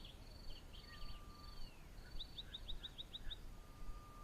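Faint bush ambience: a high insect buzz in short repeated pulses, with small birds calling over it, including a quick run of about seven short notes about two seconds in.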